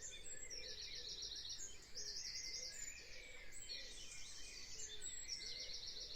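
Faint birdsong: birds chirping, with a short, rapid high trill that comes back every second or two.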